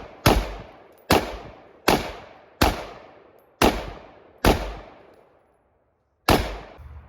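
AR-style rifle fired in single shots: seven sharp reports about one every 0.8 seconds, each trailing off in an echo, with a longer pause before the last shot.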